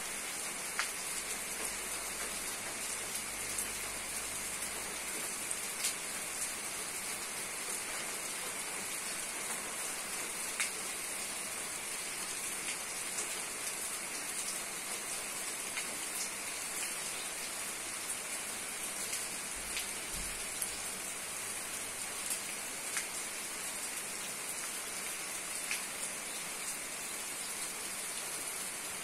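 Steady rain falling, an even hiss with scattered sharper ticks of single drops striking a surface.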